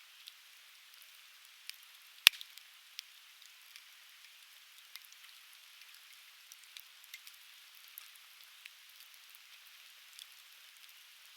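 Burning softwood (conifer) logs crackling: scattered small snaps over a steady hiss, with one sharp, much louder pop a little over two seconds in.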